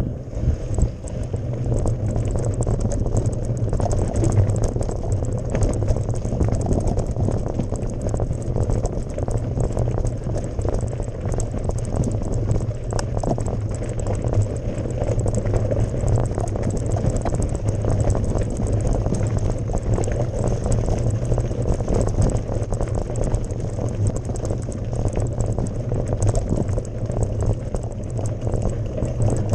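Mountain bike riding over a gravel forest road: tyres crunching and the bike rattling over loose stones, with a steady low rumble.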